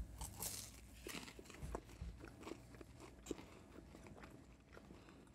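Mouths biting and chewing extra-crunchy fried chicken taquitos: a run of faint, crisp crunches that thin out after about three and a half seconds.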